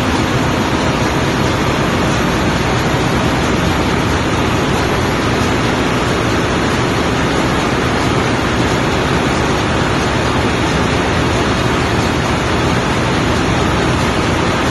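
Steady, loud, even rushing noise of ship engine-room machinery running, with no change throughout.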